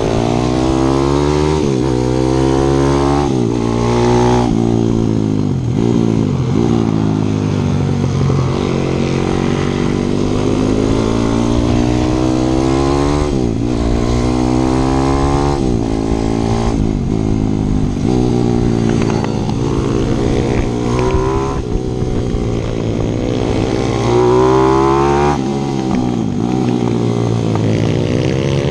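A 155 cc single-cylinder four-stroke pit bike engine being ridden hard, heard close up. Its pitch climbs and then drops back about every couple of seconds as it accelerates and eases off through the corners.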